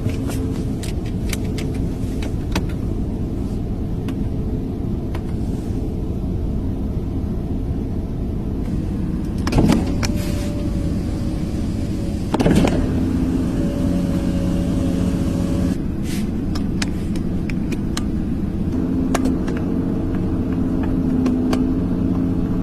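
Car running with a steady low engine and road rumble and a hum that fades in and out. Scattered light clicks run throughout, with two louder thumps about ten and twelve and a half seconds in.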